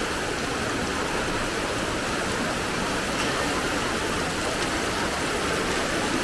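Steady rush of fast-flowing floodwater, an even, unbroken noise.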